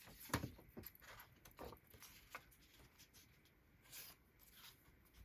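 Faint handling of paper: a few soft taps and rustles as scored paper cards are folded and pressed down, the clearest about a third of a second in.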